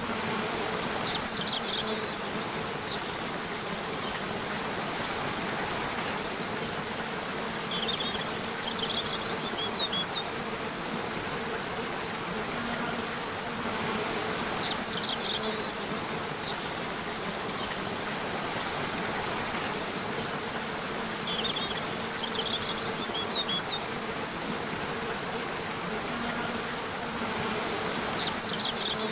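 Nature soundscape of steady rushing water with a faint insect-like buzz. Short clusters of high chirps recur about every six or seven seconds.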